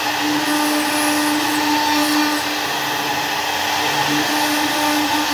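CNC wood router's spindle running steadily as it cuts into wood: a constant hum with a fainter higher whine over a hiss.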